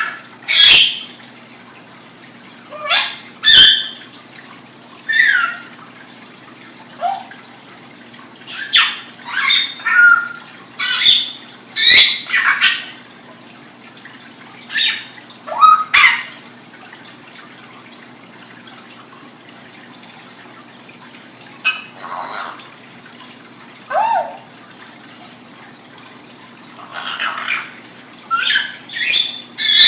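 Pet bird making a series of short, high chirps and squawks with quick pitch slides, coming irregularly and sometimes in quick clusters, with a quiet spell about halfway through.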